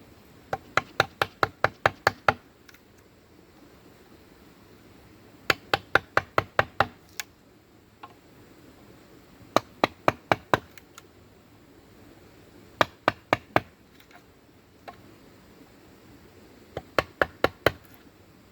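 A tool striking bamboo in quick runs of four to eight sharp knocks, about five a second, with pauses of a few seconds between runs.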